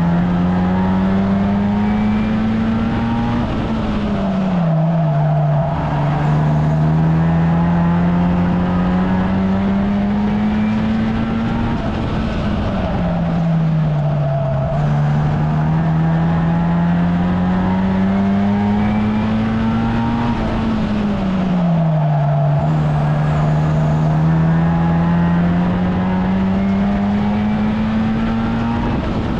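1300cc stock car engine racing at full throttle. The revs climb steadily for several seconds at a time, then drop sharply as the car lifts off for a bend, about three times over.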